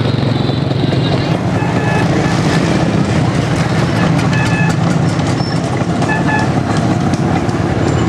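Motorcycle engine running at a steady speed, a loud, even low drone.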